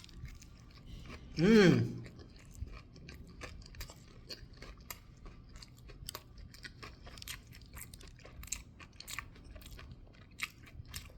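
A person chewing a bite of a crispy deep-fried chicken sandwich, with many small crunches and wet mouth clicks. About a second and a half in there is one short, loud voiced sound, with a pitch that bends up and down.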